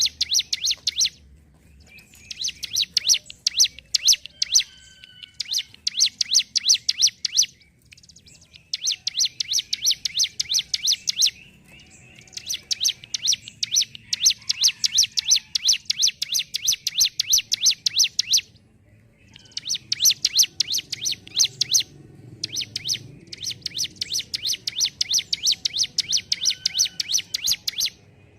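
A ciblek gunung, a prinia, singing in long runs of rapid, evenly repeated sharp high notes, many a second, each run lasting a few seconds with brief pauses between. This fast rattling delivery is the 'ngentrok' song of a bird in full voice (gacor).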